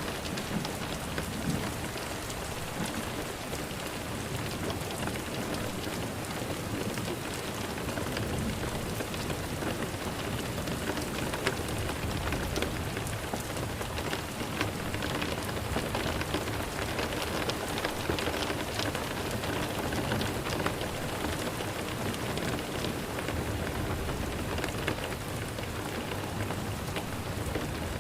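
Steady rain falling on a surface: an even hiss of many drops.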